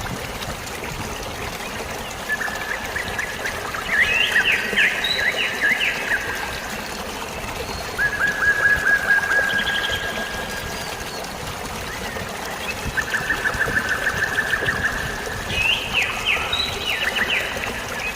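Steady trickling, flowing water, with a bird singing over it in four phrases of quick repeated notes.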